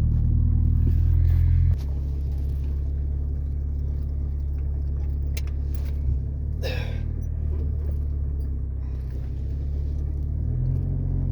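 Ford Ranger pickup's engine running in reverse gear with a steady low rumble, the truck shaking after a year of sitting. About 2 s in, the rumble drops in level and changes tone. A brief scrape comes about 7 s in.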